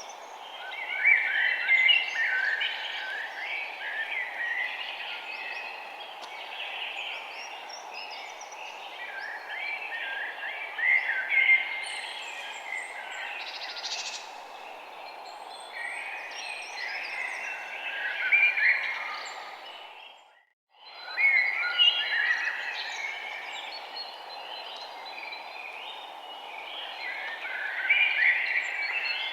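Many birds chirping at once in short, overlapping calls over a steady background hiss. Everything fades out to silence for a moment about two-thirds of the way through, then fades back in.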